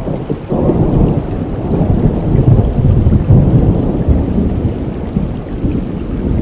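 Steady rain with a long, low roll of thunder that swells about half a second in and eases off toward the end.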